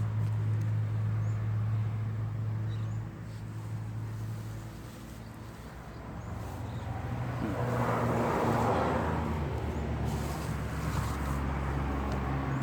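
A motor engine running with a steady low hum that shifts in pitch about three seconds in, with a louder rushing noise swelling and fading around the middle.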